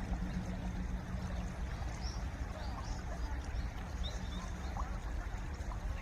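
Stream water running under ice: a steady rushing, heaviest in the low end, with a few short, high bird chirps in the middle.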